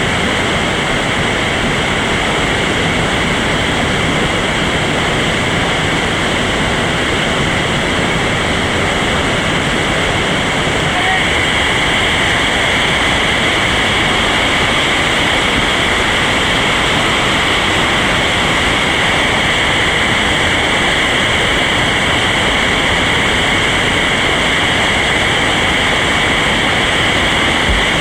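Steady, loud rush of whitewater rapids on a river running high.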